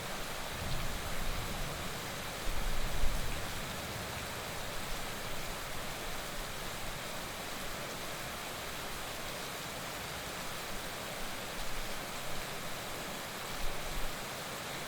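Heavy rain falling in a steady, even hiss, with a few brief low rumbles about a second in, around three seconds in and near the end.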